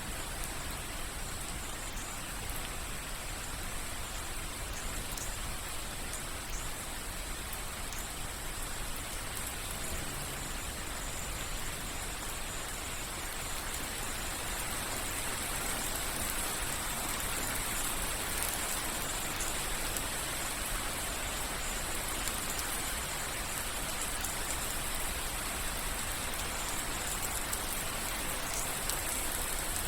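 Rain falling steadily, with many small drips and patters on a surface. It grows slightly louder about halfway through.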